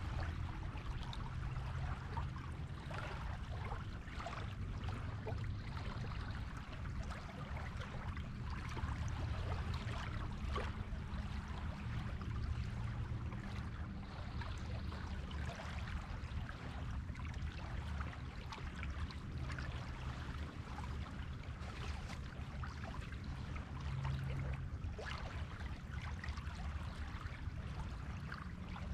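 Sea waves washing on a beach: a steady wash of water with a crackling fizz and a low rumble underneath, with no single wave break standing out.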